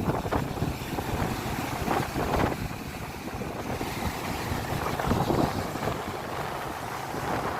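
Wind buffeting the microphone over the wash of the sea, in uneven gusts.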